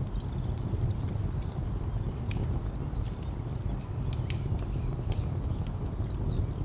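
Wood fire crackling, with scattered sharp pops, over a steady low rumble of distant traffic. Faint bird chirps come in near the start and again near the end.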